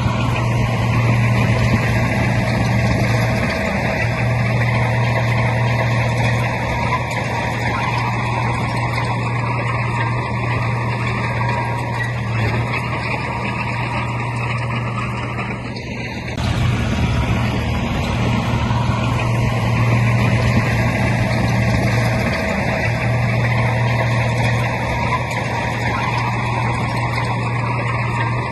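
Heavy diesel earthmoving machinery running steadily with a deep, even engine hum, dipping briefly about sixteen seconds in.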